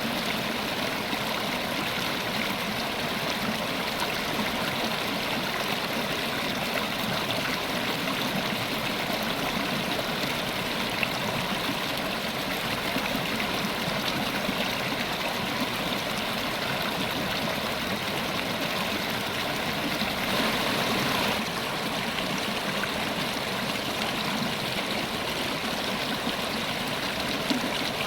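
River water flowing steadily over its bed, an even rushing with a brief swell about two-thirds of the way through.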